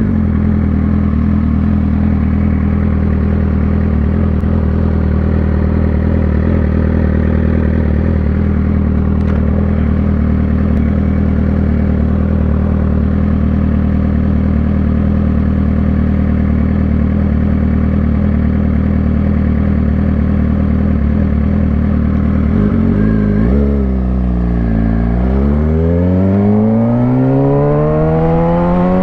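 Suzuki GSX-R600 inline-four engine running at a steady low pitch, then near the end its pitch dips briefly and climbs steeply as it revs and accelerates.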